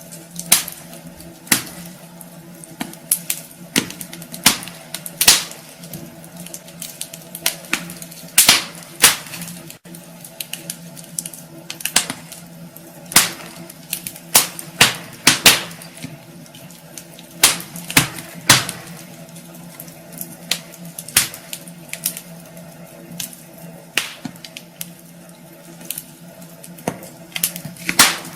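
Wood fire in a fireplace crackling, with irregular sharp pops, sometimes several in quick succession, over a steady low hum.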